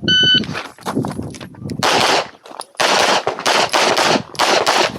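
An electronic shot timer gives its start beep, then a competitor fires a handgun in rapid strings of shots. The first shots are lighter and spaced out; from about two seconds in the shots come in dense, loud bursts.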